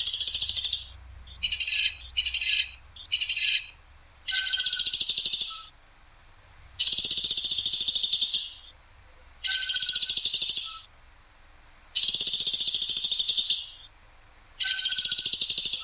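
Platuk sampit bird calling in a run of loud, fast rattling trills, eight in all, each lasting about one to two seconds with short pauses between; the first few are shorter and come in quick succession.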